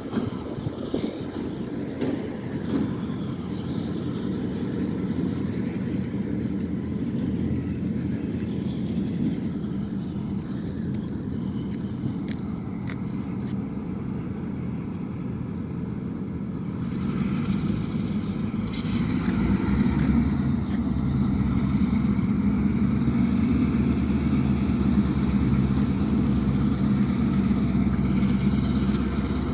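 Norfolk Southern EMD GP-series diesel switcher locomotive's engine running, growing louder about halfway through.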